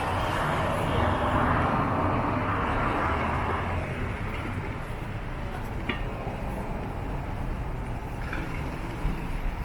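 Street traffic: a vehicle passes close in the first few seconds, its noise easing off after about four seconds, over a steady low city rumble.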